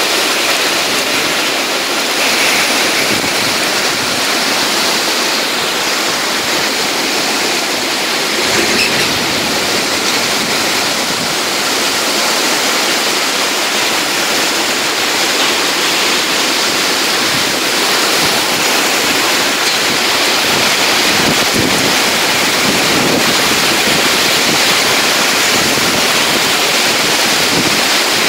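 Torrential rain falling on sheet-metal market roofs and pavement, a loud steady hiss.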